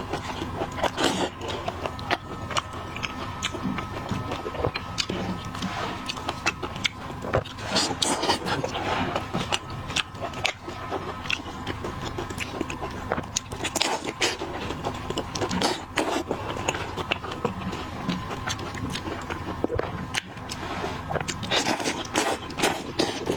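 Close-miked eating of seafood: biting and chewing, with many irregular sharp clicks and crunches of shell and flesh.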